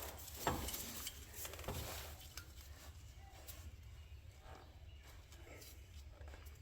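Faint clicks and light taps of hand tools at work, a few in the first two seconds, over a low steady hum.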